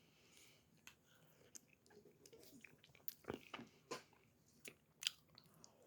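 Quiet mouth sounds of someone eating ice cream: soft, irregular chewing and wet lip smacks with small clicks, a few louder smacks about halfway through and near the end.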